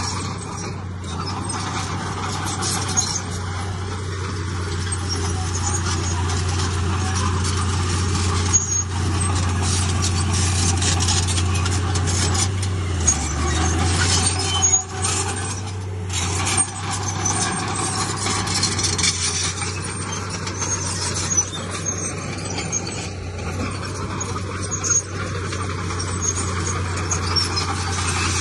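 Heavy diesel earthmoving machinery running steadily under load, its engine note dipping briefly about halfway through, with occasional sharp knocks from the work.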